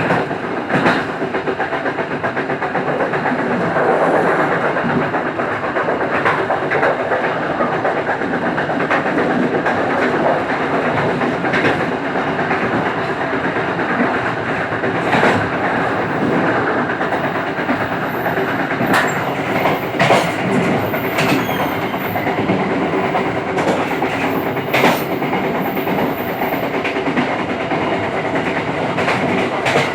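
Local passenger train running along the track: a steady rumble of wheels on rail, with irregular clacks over rail joints. A faint, very high-pitched squeal comes and goes in the second half.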